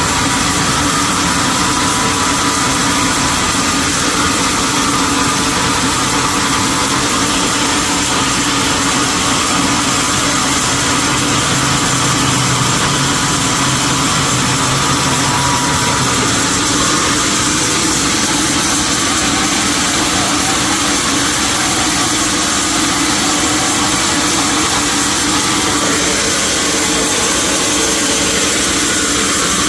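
Sawmill machinery running steadily, a loud, even mechanical noise with a constant hum and hiss.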